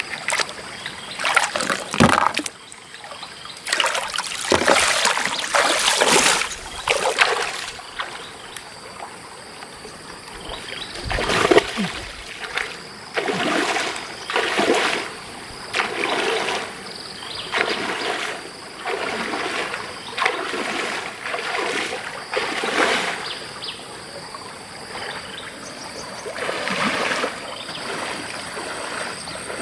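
River water splashing and sloshing in irregular bursts, one after another, the loudest about eleven seconds in, over a steady trickle of the stream. A faint steady high tone runs behind.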